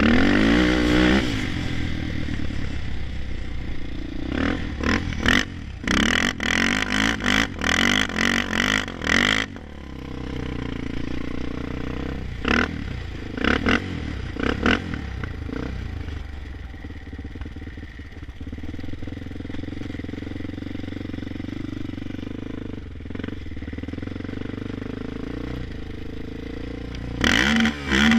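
Honda 400EX ATV's single-cylinder four-stroke engine revving hard and stuttering in repeated rapid cuts on the rev limiter, then running more steadily at lower level through the middle, and stuttering on the limiter again near the end.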